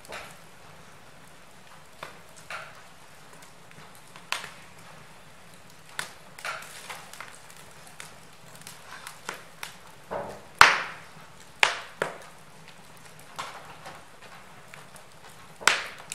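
Wood fire in a fireplace crackling: irregular sharp pops and snaps over a low steady hiss, with the loudest pops coming about two-thirds of the way through.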